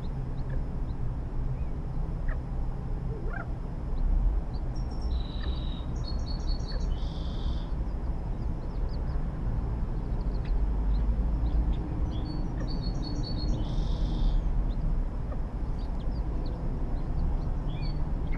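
Small birds chirping over a steady low rumble: a short call phrase of quick high notes comes twice, with scattered high peeps between, more of them near the end.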